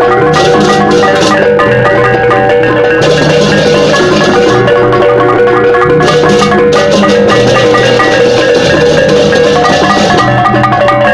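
Balinese gamelan music: tuned bronze metallophones and gongs playing a dense, fast interlocking pattern, loud and unbroken.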